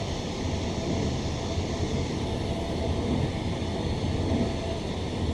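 Bombardier-built Queensland Rail NGR electric multiple unit running between stations, heard from inside the carriage: a steady low rumble of wheels on rail with a faint steady whine above it.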